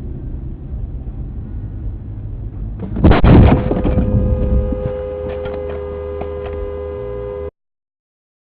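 Car collision: steady road and engine noise, then a loud crash about three seconds in, followed by a steady two-note tone and scattered clattering of debris. The sound cuts off abruptly near the end.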